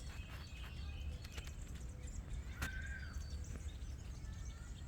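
Several small backyard birds chirping and calling in short, scattered notes over a steady low background rumble, with one sharp click about halfway through.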